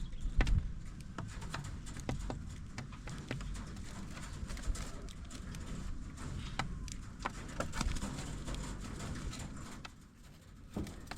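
Chickens in a poultry pen: irregular sharp taps and knocks, a few a second, over a low rumble.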